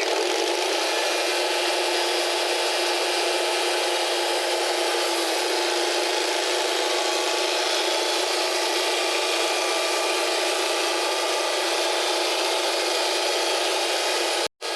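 Wood-Mizer band sawmill's carbide blade cutting through a black locust log: a steady, even sawing noise that breaks off suddenly near the end.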